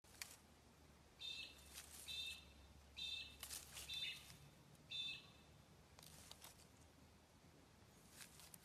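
A bird calling five times, short high chirps about a second apart, over faint intermittent rustles.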